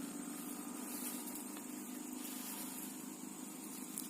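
Steady background: a low even hum with a steady high-pitched hiss or buzz above it and a few faint clicks, with no distinct event.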